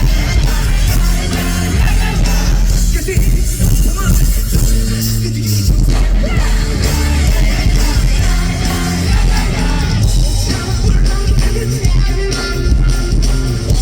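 Live rock band playing, with heavy bass, drums and guitars and a male lead vocal.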